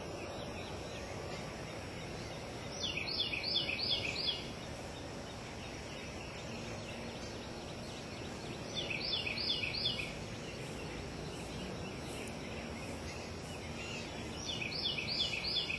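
A bird calls three times, each a quick run of about five high, down-slurred notes lasting about a second and a half, over a steady background hiss.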